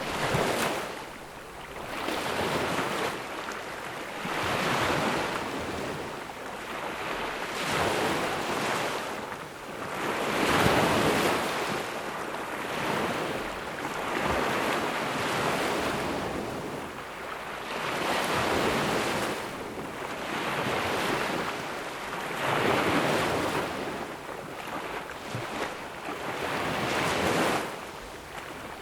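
Ocean waves breaking and washing up on a sandy beach, a steady rushing surf that swells and ebbs every two to three seconds, with one larger wave about ten seconds in.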